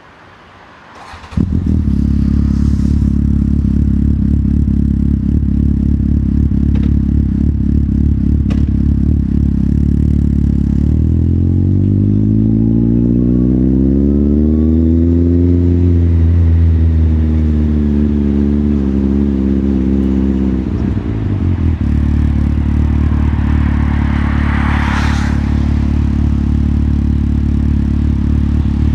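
Motorcycle engine catching about a second in and settling into a steady idle, then revved slowly up around the middle, held, and let back down to idle. A brief hiss comes near the end.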